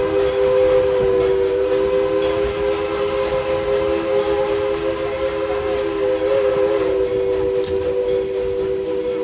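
Steam locomotive's chime whistle blown in one long, steady blast of several notes sounding together, with the rumble of the train running underneath.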